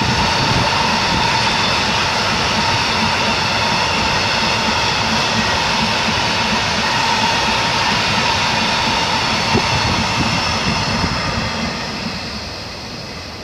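Freight train wagons rolling past, a steady rail rumble with high ringing tones over it, fading away near the end.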